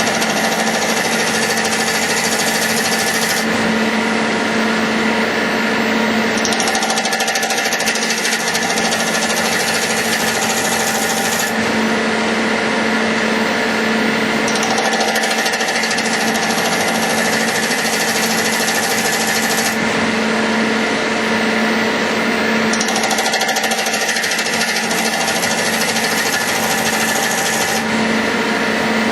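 CNC metal lathe running and machining: a loud, steady grinding noise with a constant hum, its upper part changing in a cycle about every eight seconds.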